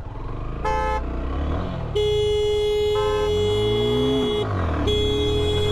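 Vehicle horn honking in traffic: a short beep, then a long blast, a brief break and another long blast, over engines whose pitch rises and falls as vehicles pass.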